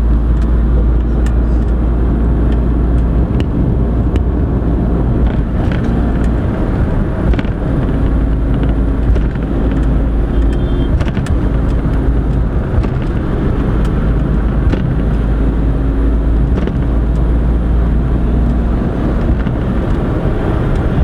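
Car on the road: a steady low rumble of engine and tyres, with a few faint ticks.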